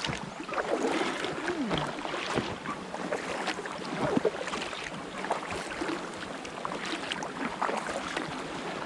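Sea water splashing and dripping around an inflatable kayak as it is paddled along.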